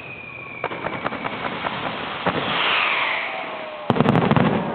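Fireworks going off: a falling whistle fades out in the first second, with scattered sharp cracks. A hiss swells and fades around the middle, then a loud rapid string of cracks and bangs comes near the end.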